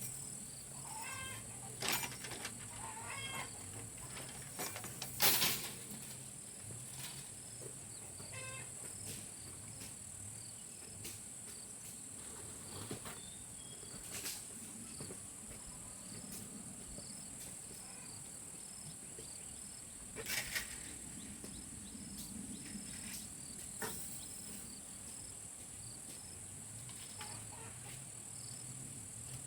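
Steady high-pitched chorus of crickets or other insects, with a few sharp snaps scattered through, the loudest about five seconds in.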